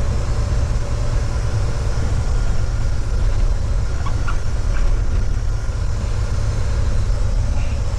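Steady low rumble of a diesel semi-truck day cab running down the road, heard from inside the cab: engine and road noise.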